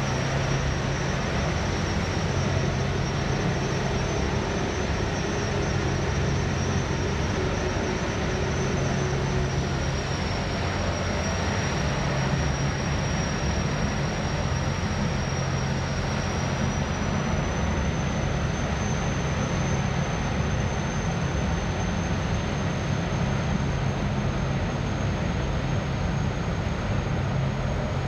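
Boeing 929 Jetfoil's gas turbines running under way: a steady roar with a high, thin turbine whine that dips slightly about ten seconds in and climbs again a few seconds later.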